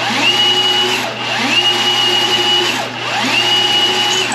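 Milwaukee M18 sectional drain machine's motor spinning the 7/8-inch cable in short pulses: three times it winds up, runs for about a second and winds down, as the cable is worked deeper down a clogged main drain line.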